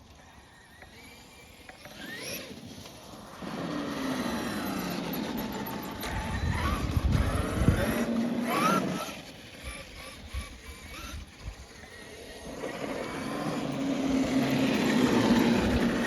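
Traxxas X-Maxx 8S electric RC monster truck driving, its brushless motor and drivetrain whining up and down in pitch with bursts of throttle, with rumbling from the tyres over the ground. Quiet at first, loudest about the middle and again toward the end.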